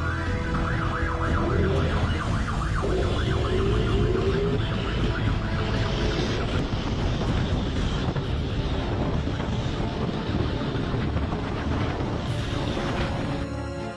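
Police siren wailing over vehicle engine and road noise.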